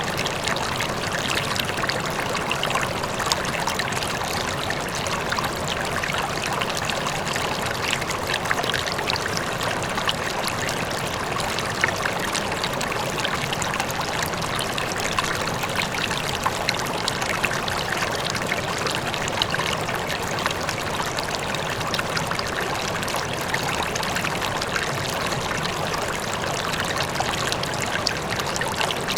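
River water flowing steadily over stones, with small splashes and gurgles, and a faint waterfall in the distance.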